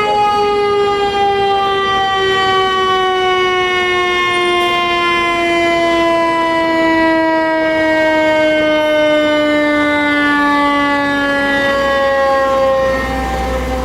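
Federal Q2B mechanical siren on a fire engine, wound up just before and now coasting down in one long, slowly falling wail. A low rumble comes in near the end.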